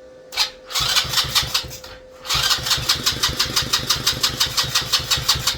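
Small engine being cranked over by its electric starter with the choke off, in two tries: a short one, then a longer one of about three seconds at roughly five even pulses a second. It turns over but does not catch and run.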